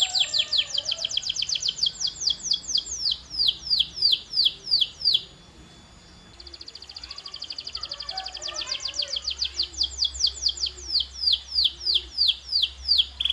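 Domestic canary singing, repeating falling whistled notes in long runs. The first run slows down and stops about five seconds in. After a short pause, a second run starts as a fast, soft trill and grows louder, slowing into wider falling notes.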